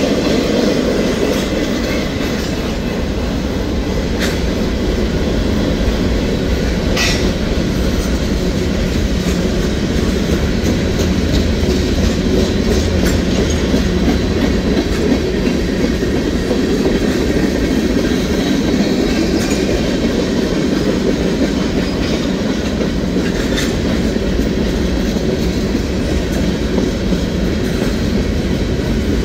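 Cars of a mixed freight train (boxcars, covered hoppers, tank cars) rolling steadily past: a loud, continuous rumble of steel wheels on rail, with a few sharp metallic clicks.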